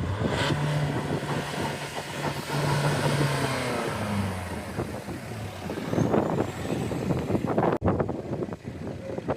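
Car engines running and revving at a car meet, their pitch rising and falling as cars move past, with a louder surge about six seconds in.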